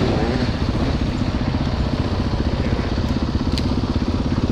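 Single-cylinder dirt bike engine idling steadily, with one short sharp click about three and a half seconds in.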